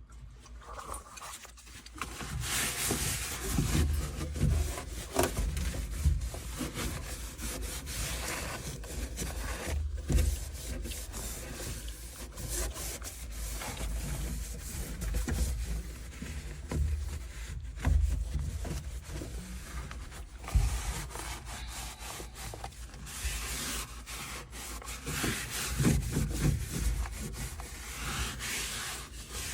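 Irregular rubbing and scraping strokes as dust is scrubbed off a furnace blower motor and its housing, with occasional knocks from handling the parts.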